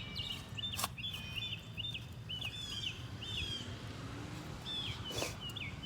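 Small birds chirping in a string of short, quickly repeated notes, with two short knocks, one about a second in and one near the end, over a low steady rumble.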